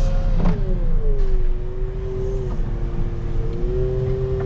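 Wheel loader's diesel engine running under work, with a whine that drops in pitch about a second in and climbs again near the end as the machine changes speed. A brief knock about half a second in.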